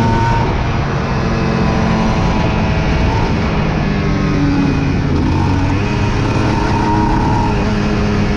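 Aprilia RS 125 single-cylinder motorcycle engine running at steady, high revs while riding, its pitch rising and dipping slightly.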